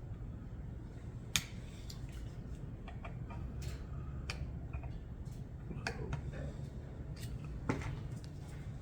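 Scattered light metallic clicks and taps of small hand tools on a carburetor's parts as it is taken apart, the sharpest about a second and a half in, over a low steady hum.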